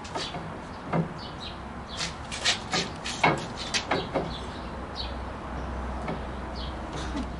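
Irregular knocks and clatters of wooden pieces being handled and set down, thickest around the middle.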